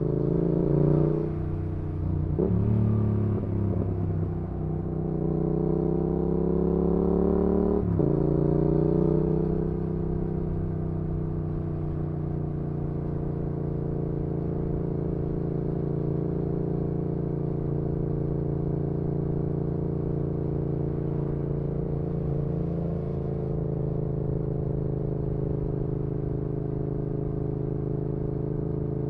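Yamaha XSR700's parallel-twin engine through an aftermarket IXRACE MK2 exhaust, rising in revs and dropping sharply at each of three upshifts in the first eight seconds, then running at a steady cruising speed.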